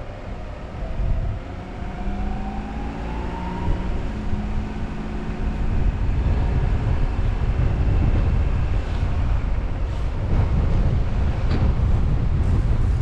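Car driving, with engine and road noise under a heavy low rumble. The engine note rises in pitch over the first few seconds as the car accelerates, and the rumble grows louder about halfway through.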